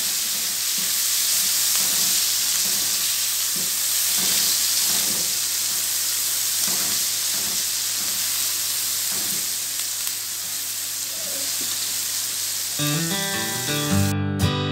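Chopped onions, green chillies and tomato sizzling and spitting in hot oil in a non-stick wok while a spatula stirs them. Acoustic guitar music comes in near the end.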